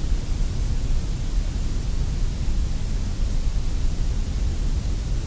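Sandblast cabinet blast gun running without a break: a steady rush of compressed air and abrasive, deep with a hiss on top, as it strips rust from a pressed-steel Tonka toy truck part.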